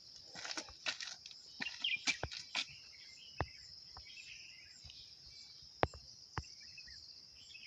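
Insects chirring in a steady high band, with scattered sharp clicks and taps over it.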